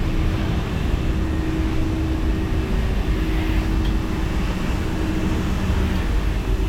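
Steady hum of running car wash machinery: one constant tone over a low rumble, without a break.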